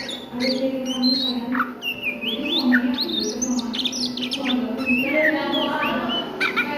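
Oriental magpie-robin singing a rapid chattering 'ngriwik' song: quick sweeping and rising whistled notes, one after another, over a low steady hum.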